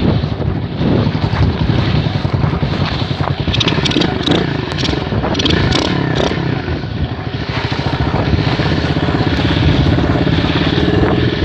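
M2R KX110F pit bike's four-stroke single-cylinder engine running steadily, with a few light clicks midway through.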